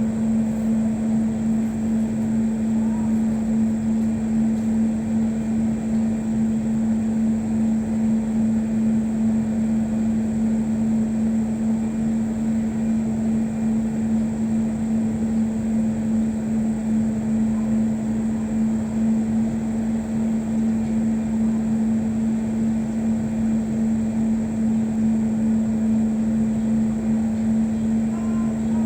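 Steady engine drone with a constant low hum and a rushing noise beneath it, unchanging throughout.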